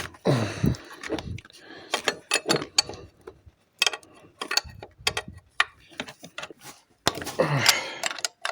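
Hand tools clicking and knocking against metal in irregular short strokes while a nut holding the fuel pump is worked on.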